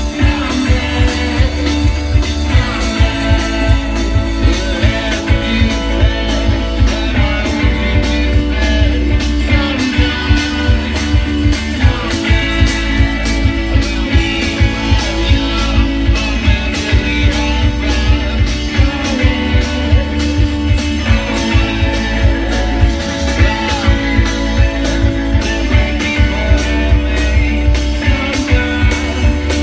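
Live rock band playing: electric guitars, bass and drums keeping a steady beat, with singing.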